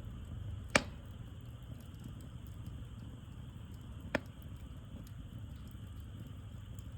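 Wood campfire burning with a low steady rumble, and two sharp pops of burning wood, just under a second in and about four seconds in.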